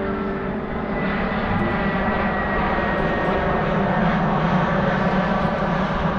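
Airplane passing low overhead: a loud, steady engine rumble that swells slightly, with a thin whine that slowly falls in pitch.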